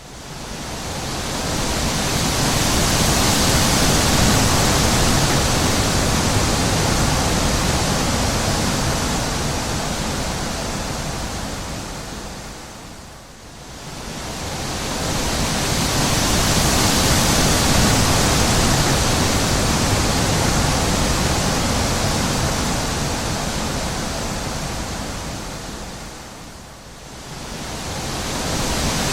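Wind blowing as an even rushing noise that swells and dies away in long, slow gusts, falling low about 13 seconds in and again near the end before rising once more.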